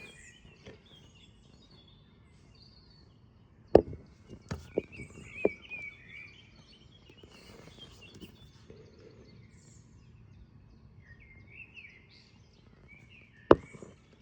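Birds chirping faintly over a steady outdoor background hiss, broken by a few sharp clicks or knocks about four seconds in and again near the end.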